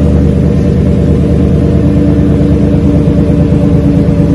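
Exhaust of a 2021 Chevy Silverado's 6.2-litre V8 running steadily through a Flowmaster Super 40 muffler, with the rear resonators removed. It gives a deep, even rumble.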